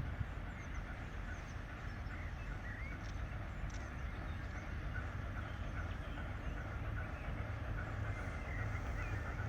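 A steady low rumble with faint, scattered bird chirps over it.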